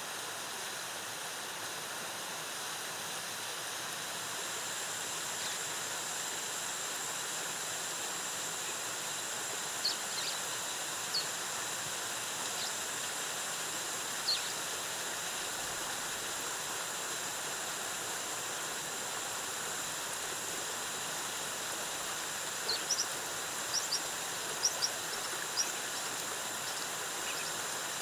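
Waterfall cascading: a steady rush of falling water, with a thin high steady tone above it and scattered short high chirps, a quick cluster of them near the end.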